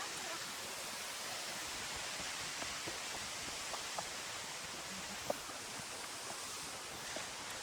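Steady rushing of a mountain waterfall, an even hiss of falling water. A few faint clicks sit over it, one sharper about five seconds in.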